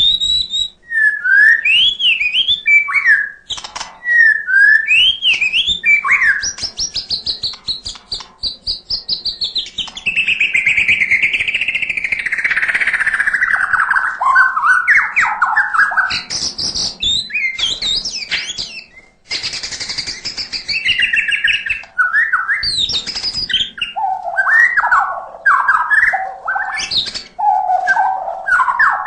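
White-rumped shama (murai batu) singing a long, varied song: sweeping whistles, fast rattling trills and a harsh chattering burst about two-thirds of the way through, with its mimicked fill phrases.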